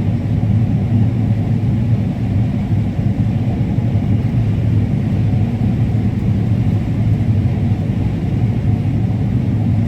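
Combine harvester running steadily in the field: a constant low engine drone with a steady hum, unchanging throughout.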